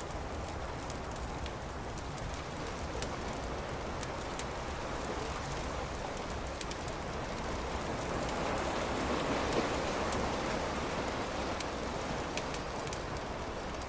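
Campfire crackling, with frequent sharp little pops over a steady rushing noise that swells for a few seconds past the middle.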